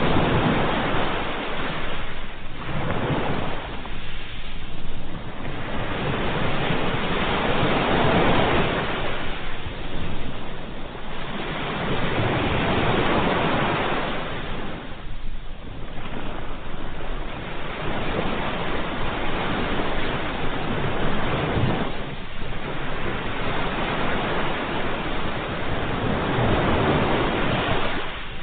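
Ocean surf: waves breaking one after another, the rush of water swelling and fading every few seconds.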